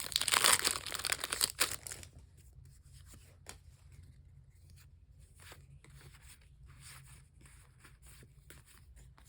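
A Pokémon card booster pack's foil wrapper torn open, loud for about the first two seconds. Then faint clicks and rustles of the cards being handled.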